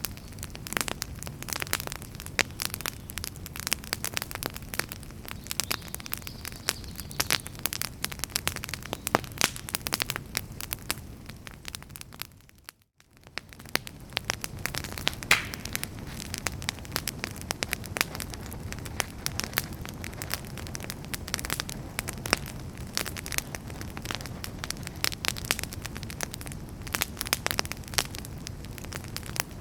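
Wood fire crackling in a fireplace: a steady hiss of burning with many sharp pops and snaps. A little after twelve seconds in, the sound fades away to near silence for a moment and then fades back in.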